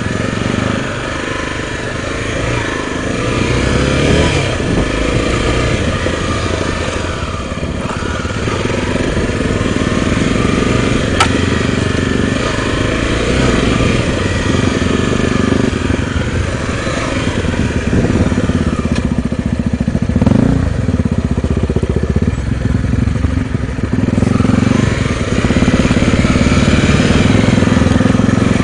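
Single-cylinder engine of a Honda XR250 Tornado trail motorcycle running while ridden, its revs rising and falling again and again through gear and throttle changes. A single sharp click comes about eleven seconds in.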